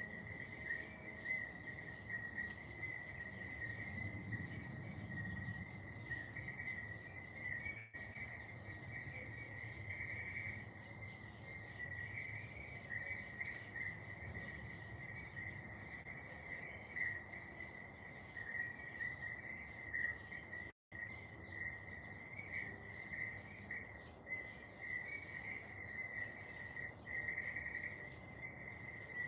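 Insects trilling steadily in a garden, a continuous high-pitched chorus, over a faint low background rumble. The sound cuts out completely for a split second about two-thirds of the way through.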